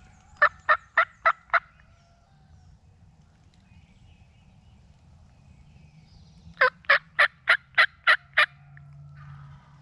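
Wild turkey yelping: a run of five loud, evenly spaced yelps early on, then a run of seven about six and a half seconds in.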